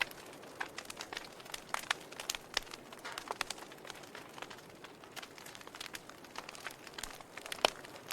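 Wood fire burning in a fireplace, crackling with irregular snaps and pops over a soft hiss, one louder pop near the end.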